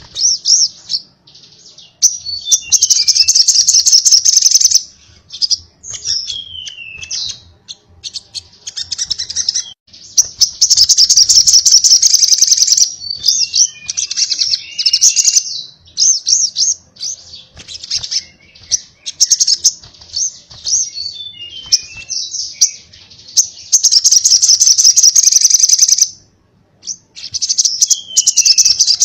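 Crimson sunbird (sogon) singing its rapid 'konslet' chattering song: long, very fast high-pitched trills of two to three seconds, three times, broken up by short descending notes and quick chirps.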